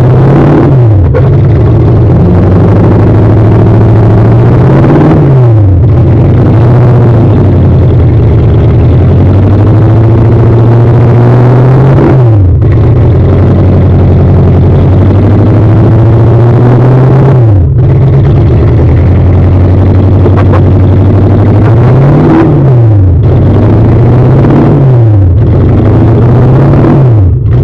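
Toyota 1UZ-FE V8 in a GAZ-24 Volga revving hard while driven: engine speed climbs, then drops sharply several times, as at gear changes or lifting off the throttle, with a few quick blips up and down.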